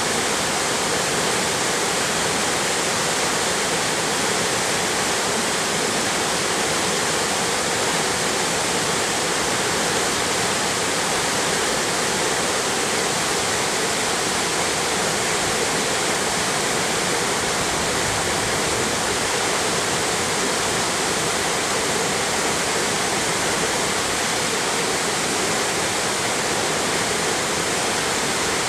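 Mountain stream water rushing, a steady, unbroken sound of flowing water.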